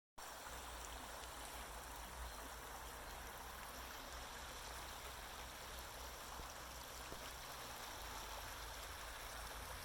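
Faint, steady rushing of running water from a small stream.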